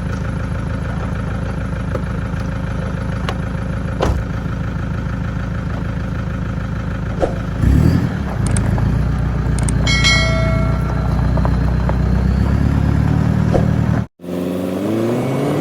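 Motor vehicle engine running with a steady low drone; its note shifts about eight seconds in. The sound cuts out suddenly near the end, then a different sound with rising and falling pitch begins.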